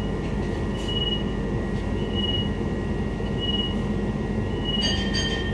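Steady low hum of a stopped Queensland Rail IMU 120-series electric multiple unit, heard from inside the passenger car. Over it a short high beep repeats about every 1.3 seconds, typical of the door-release signal while the push-button plug doors are enabled. Near the end come two brief, higher, fuller tones.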